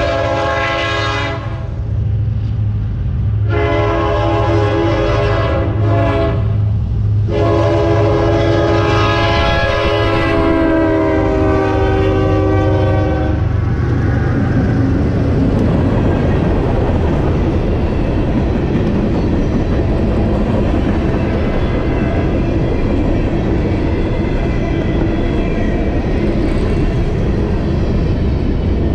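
Diesel freight locomotive's air horn sounding a chord in a series of blasts for a grade crossing, the last one held for about six seconds, over the low rumble of the engines. The horn stops about halfway through and the locomotives and loaded hopper cars roll past with steady wheel-on-rail noise.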